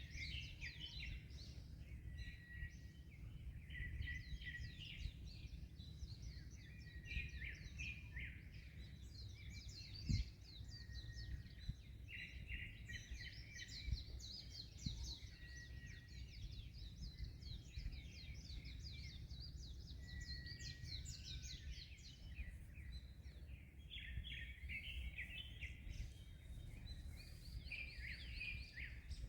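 Many birds chirping and trilling over one another without a break, over a steady low rumble of wind and surf. A single sharp tap stands out about a third of the way in.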